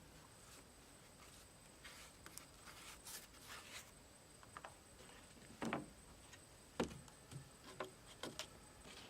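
Scattered light knocks and rustles. A louder thump comes a little past halfway, a sharp knock follows about a second later, then a few smaller knocks.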